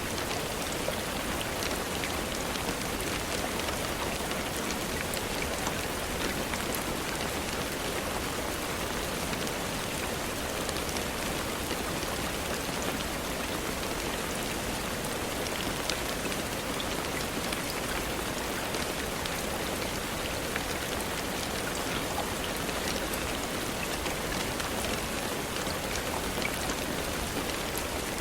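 Steady rain falling on a surface, an even hiss dotted with many small individual drop ticks.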